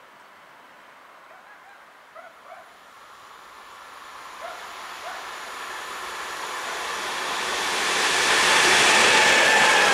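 DB class 185 electric locomotive, a Bombardier TRAXX, hauling an intermodal train of lorry trailers as it approaches and passes. Its wheel and rail rush grows steadily from faint to loud and is at full strength near the end, with a few short chirps about two seconds in.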